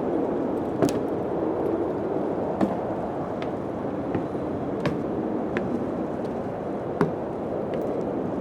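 Steady wind-like rushing noise, with sharp knocks about every two seconds and a few fainter ticks between them.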